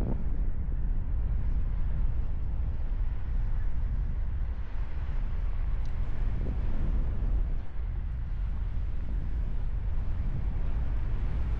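Airflow buffeting the microphone of a paraglider pilot's camera in flight: a steady low rumble of wind noise.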